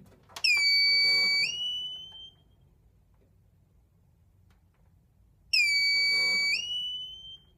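An electronic tone sounds twice, about five seconds apart. Each time it holds one steady pitch for about a second, steps up to a slightly higher pitch, and fades away.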